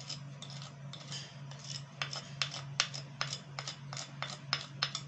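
A metal spoon clinking against the side of a cooking pot while stirring a liquid mixture. The light clinks grow sharper and settle into a regular beat of about two to three a second from about two seconds in.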